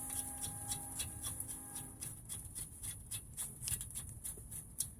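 Faint ratchet clicking in short runs as a brake caliper mounting bolt is run in and tightened, about four clicks a second in the second half.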